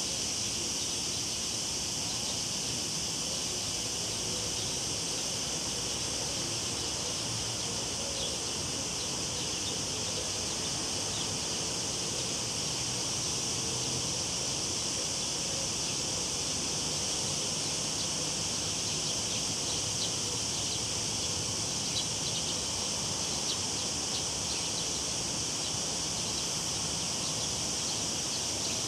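Cicadas droning in a steady chorus, a constant high-pitched buzz, over the low even rush of a river.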